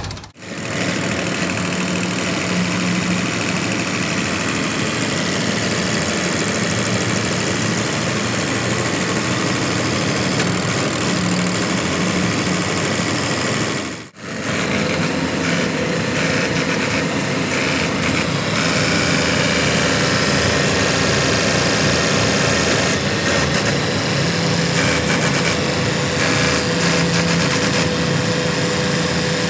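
Tractor diesel engine running steadily at idle, cutting out sharply twice: once right at the start and once about fourteen seconds in.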